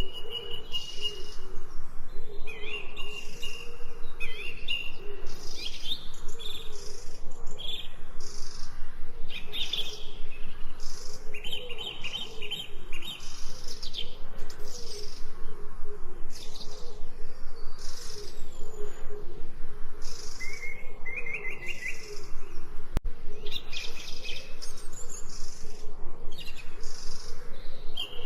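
Songbirds chirping and singing in dense, overlapping high calls and trills, with a lower wavering call running underneath and one sharp click about two-thirds of the way through.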